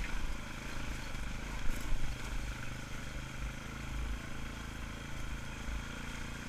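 ATV engine running at low speed on a trail, a steady low drone. A brief sharp knock about a second and a half in.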